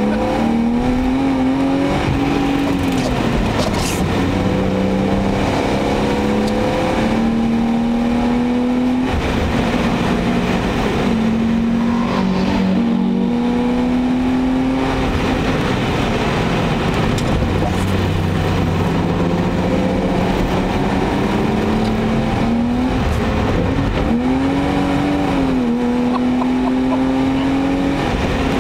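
BMW E34 525i's 2.5-litre M50 straight-six, heard from inside the cabin while lapping a circuit. The engine note climbs under acceleration and drops back several times as the car shifts and lifts, with a quick dip and rise near the end, over steady road and wind noise.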